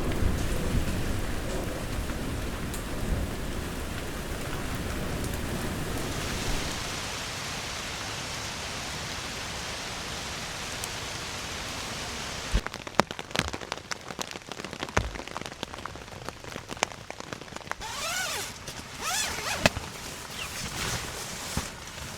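Heavy rain falling, with a low rumble of thunder that fades over the first six seconds or so. From about halfway the steady rain gives way to scattered sharp drips and knocks, with a few brief scraping strokes near the end.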